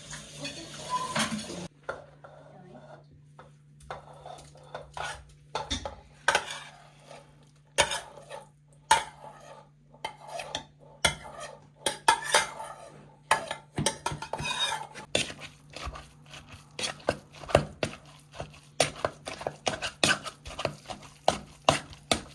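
Metal spoon clinking and tapping against a dish while stirring sugar in, the taps becoming quicker and more regular in the second half.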